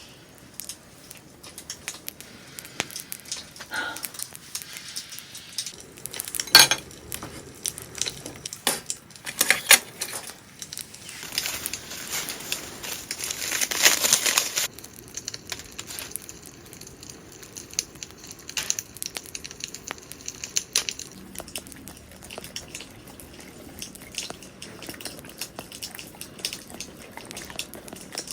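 Camp cooking handling sounds: scattered clinks and knocks of cookware and utensils, with some crinkling. A hiss lasts about three to four seconds, a little before the middle.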